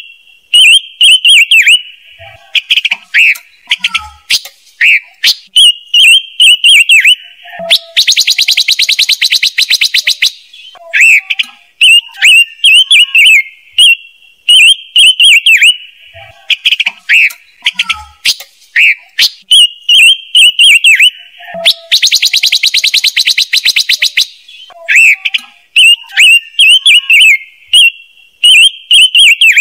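Looped lure recording of a silver-eared mesia (sold as 'ngũ sắc') singing: quick runs of whistled chirps, twice interrupted by a dry buzzing rattle lasting about two seconds, used to draw wild birds to a trap speaker.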